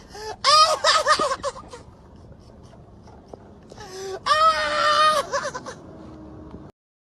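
A high-pitched voice whimpering in two stretches: a wavering cry about half a second in, and a longer, steadier one about four seconds in. The sound cuts off suddenly near the end.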